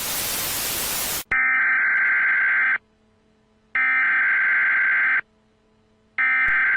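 A burst of static for about a second, then long electronic beeps at one steady high pitch, each about a second and a half with a second's silence between. This is the alert tone of a mock broadcast interruption.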